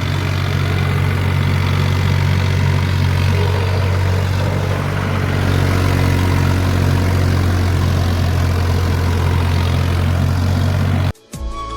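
Mahindra 265 tractor's diesel engine running steadily at a constant speed, with a strong low hum; the sound cuts off abruptly near the end.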